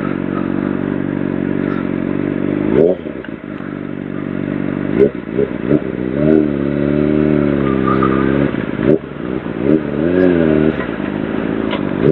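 Sportbike engine accelerating through the gears, its note climbing and then dropping sharply at each gear change, several times over, with a few seconds held at a steady pitch in the middle.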